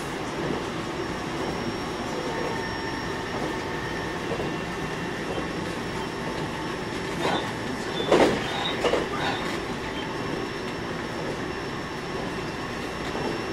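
Cabin running sound of a JR East E721-0 series electric train under way: steady rolling noise of wheels on rail with a faint, thin steady whine. About seven to nine seconds in there is a short run of sharp knocks, the loudest a little past eight seconds, as the wheels pass over track joints.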